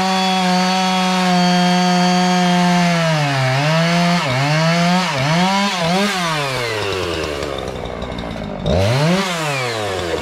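Small two-stroke chainsaw running at full throttle, then revved down and up several times before dropping to idle about six seconds in, with one more quick rev near the end.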